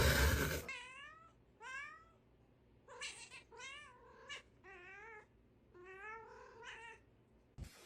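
A cat giving a string of short, wavering meows, about eight calls spread over several seconds. A loud, noisy burst comes just before the first call.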